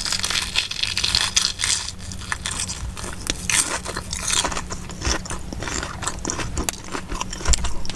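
Close-miked biting and chewing of a crispy deep-fried Korean corn dog: a dense run of crunching crackles, heaviest about the first second, then scattered crunches as the chewing goes on.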